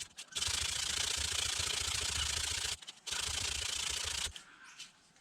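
Spotted gum maul handle being sanded down to fit the head: two long spells of abrasive rubbing on the wood, the first about two and a half seconds, then a short pause and a second just over a second long.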